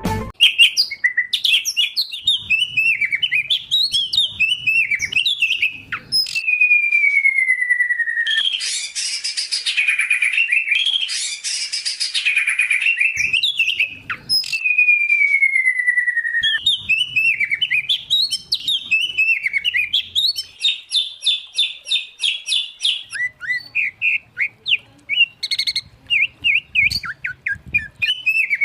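Songbirds singing a varied, continuous song: a mix of white-rumped shama, oriental magpie-robin and greater green leafbird. Two long falling whistles, a dense scratchy run of notes in the middle and a fast string of repeated notes later on.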